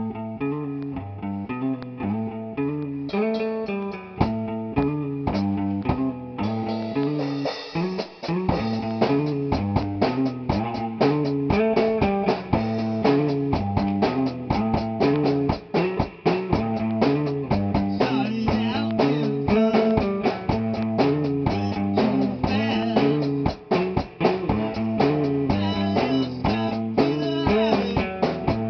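A rock band playing live at a rehearsal. A guitar starts a riff abruptly, drums build in over the first few seconds, and the full band then plays on at a steady beat.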